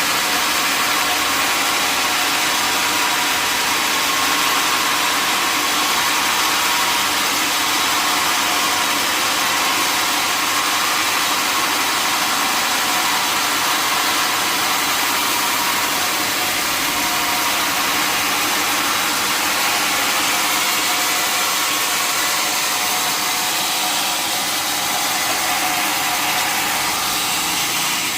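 Sawmill machinery running steadily: a dense, even mechanical noise with a constant hum and no breaks.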